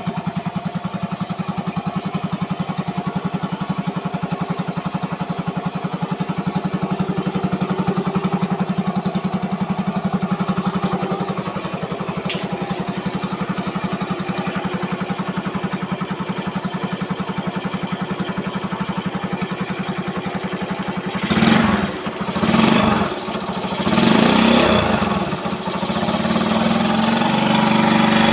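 1974 Honda Benly S110 motorcycle engine idling steadily with even, rapid exhaust pulses. About three-quarters of the way through it is blipped up three times in quick succession, then keeps running a little louder.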